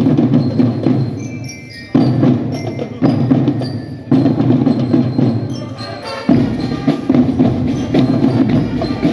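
Marching drum band playing loudly: drums strike together in accented hits every second or two, each ringing down, while the bell lyre plays short bright notes above.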